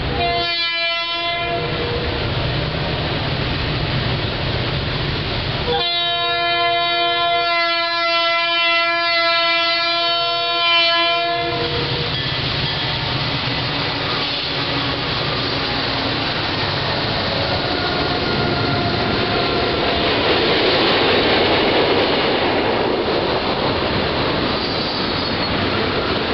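Diesel freight locomotive horn sounding a chord, a short blast and then a long one of about six seconds, as the train approaches a grade crossing. The locomotives then rumble past, followed by tank cars rolling by with steel wheels running over the rails.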